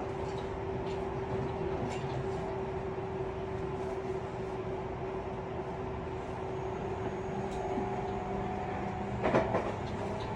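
Tobu 50090 series electric train heard from inside a motor car while running: steady rail noise with a steady hum from the traction equipment, which shifts pitch about three-quarters of the way through. There are a few light clicks, and a brief, louder double clatter near the end.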